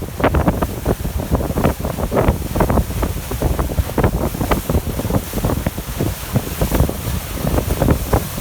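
Wind buffeting the phone's microphone on a sailboat under way: a loud, uneven low rumble with irregular gusty thumps.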